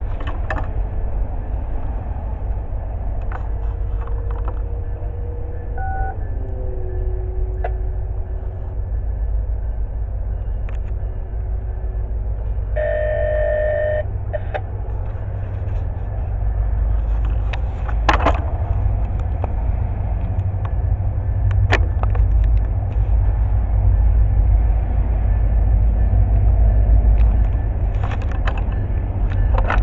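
An approaching train: a low steady rumble that grows louder toward the end, with a short horn toot of about a second around thirteen seconds in.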